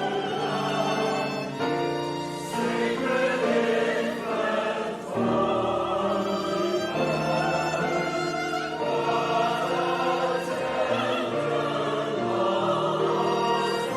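Church chancel choir singing a Christmas choral piece in sustained, slowly changing chords.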